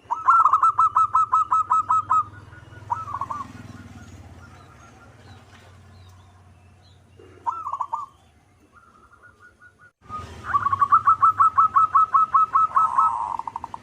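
Zebra dove (perkutut) singing its cooing song: a rapid run of about ten clipped, rolling notes, two short calls, then a second rapid run about ten seconds in that ends in a lower trill.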